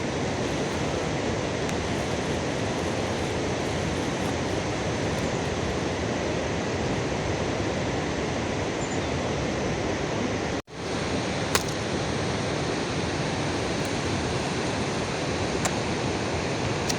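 Steady heavy rain, an even hiss with no let-up, with a momentary break about two-thirds of the way through and a few faint clicks.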